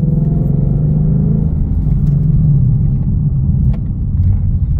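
Ford Mustang V8 with its exhaust flaps open, heard from inside the cabin with the windows closed, running with a steady deep rumble.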